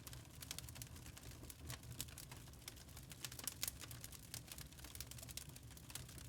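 Wood fire in a fireplace crackling: many irregular small pops and snaps over a low steady rumble.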